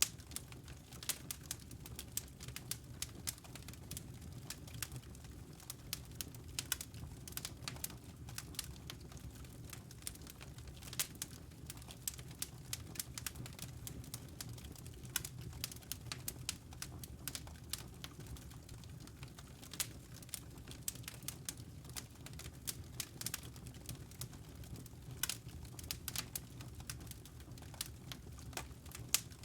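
Fire crackling in a fireplace: irregular sharp pops and snaps, many a second, over a steady low rumble.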